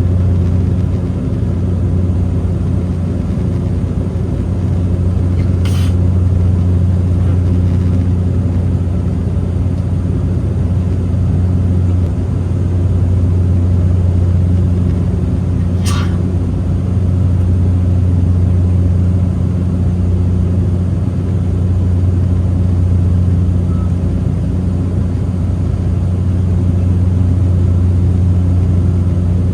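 Steady low drone of an airliner's engines and airflow heard inside the passenger cabin, with two short clicks about six seconds and sixteen seconds in.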